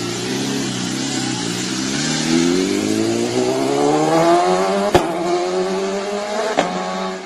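Vintage motorcycle engine running, then rising steadily in pitch as it accelerates, with two sharp cracks partway through, about a second and a half apart.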